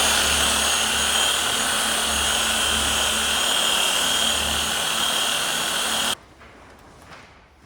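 A power tool running with a steady hiss and a high whine, switched on suddenly and cut off after about six seconds.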